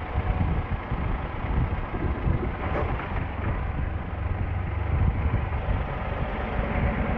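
Motorcycle running on the road, picked up by a bike-mounted action camera's own microphone, with heavy wind rumble over the engine. A single short tick sounds a little under three seconds in.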